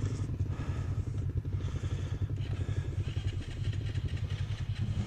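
Dirt bike engine running steadily at a low, even speed, with a fast regular pulsing beat and no revving.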